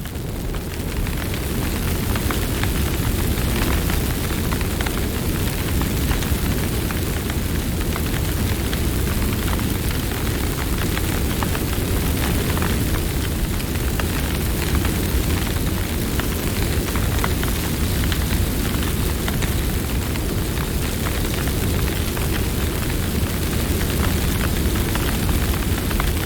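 Campfire burning: a steady low rushing rumble with scattered sharp crackles and pops from the burning wood.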